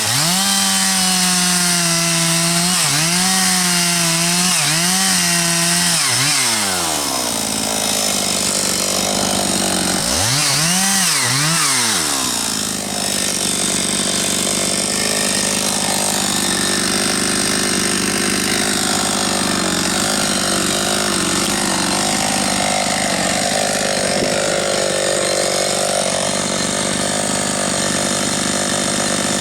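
Two-stroke chainsaw cutting wood, its engine speed dipping and recovering repeatedly under load, then dropping off about six seconds in. It revs up and back down once around the middle, then runs steadily at high speed through the rest.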